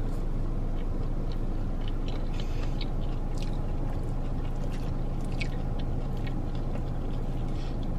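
A person chewing a mouthful of burrito bowl, with small scattered clicks and scrapes of a plastic fork in the fiber bowl, over a steady low hum in the car.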